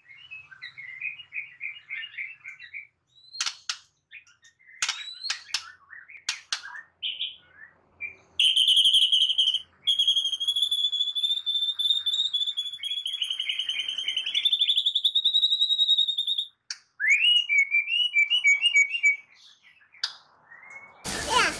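A songbird singing: chirping trills, a few sharp clicks, then a long fast trill held at one pitch for about eight seconds, followed by short rising chirps. Rain begins pattering just before the end.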